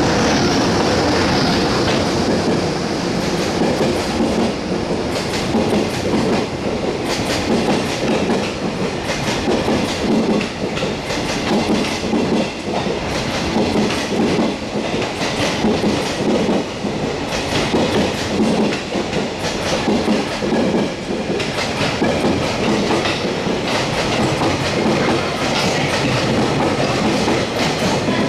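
Freight train running past, its wagons' wheels clattering steadily over the rail joints for the whole stretch.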